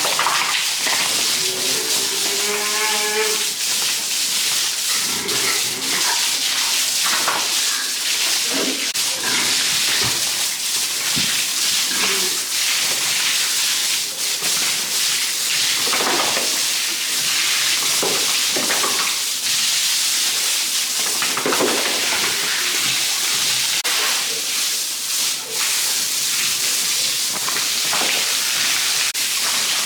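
Farm animals calling over a steady hiss: one drawn-out pitched call about two seconds in, then scattered shorter calls.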